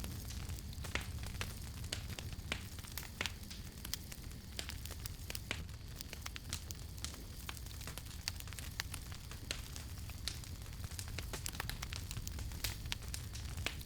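Campfire crackling, with many sharp irregular pops and snaps over a steady low rumble.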